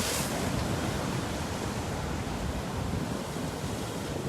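Sea surf washing against the breakwater rocks, a steady rushing noise, with wind buffeting the microphone.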